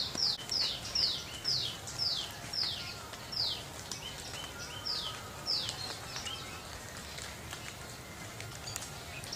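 Bird calling in a series of short, sharp, high notes, each falling in pitch. They come about two a second at first, then slow, pause briefly, and stop about six seconds in, over a steady outdoor background hum.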